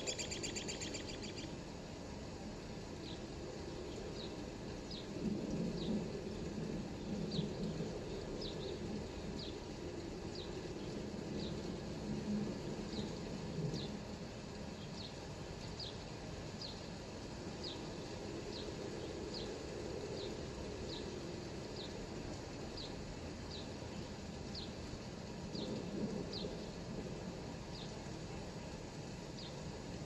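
A songbird repeating a short, high chirp about once a second, over the steady hiss of light rain. A low rumble swells and fades a few times in the background.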